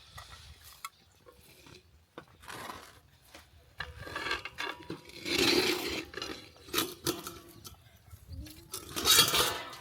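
Cooking pots and utensils being handled: scattered clinks and knocks, louder about five seconds in and again near the end.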